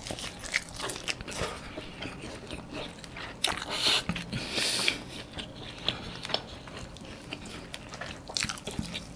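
Close-miked chewing of a hand-fed mouthful of chicken rice with sambal: a run of small mouth clicks and bites, louder for a moment about four seconds in.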